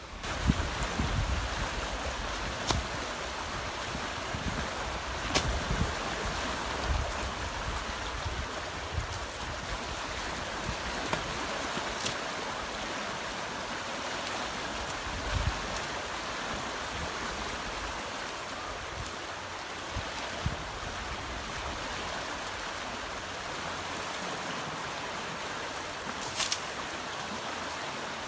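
Steady rushing of a fast-flowing river in flood, with a few sharp clicks scattered through it.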